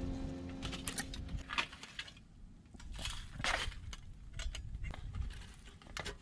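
Music fading out in the first second and a half, then scattered light clicks and knocks with a brief rustle about three and a half seconds in.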